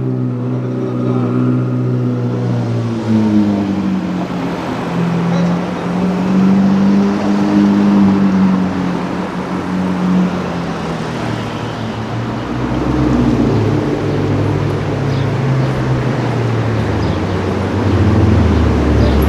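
Sports car engine and exhaust accelerating: its note climbs steadily for several seconds, then fades away. A second, deeper engine note comes in about two-thirds of the way through and grows louder near the end.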